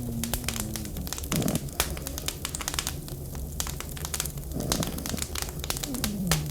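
Wood fire crackling with rapid, irregular pops. Over it, a dog's low whine falls in pitch, wavering in the first second and again near the end.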